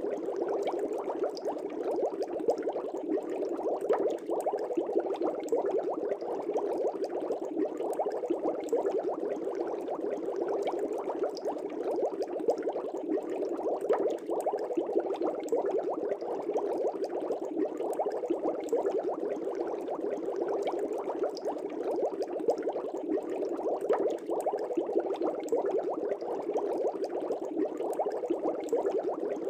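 Aquarium air bubbles rising and burbling in a fish tank, a steady dense stream of small rapid bubble pops without pause.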